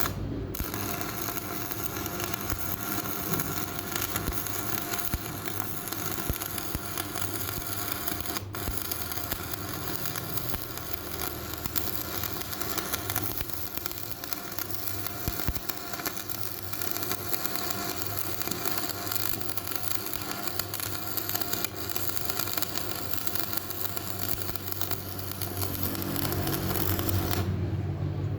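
Electric arc welding on a cracked steel truck wheel rim: a continuous crackling, sputtering arc with a faint buzz, starting suddenly and cutting off near the end.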